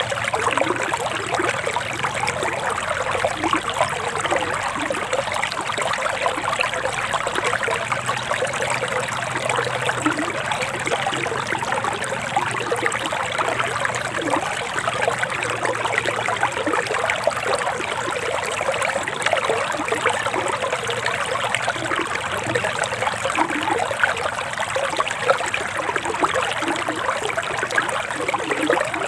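Forest stream flowing steadily over rocks, a constant babbling and trickling of water.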